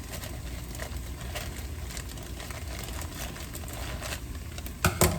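Onions cooking in a soup pot, with faint scattered crackles over a low steady hum. Two sharp knocks come close together near the end.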